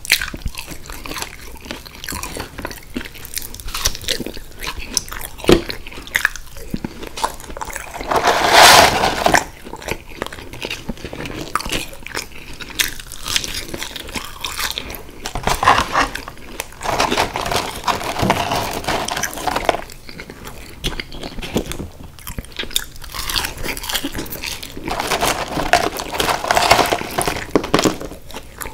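Close-miked chewing and biting of McDonald's French fries and chicken nuggets, with many small crunches and a few louder spells of chewing.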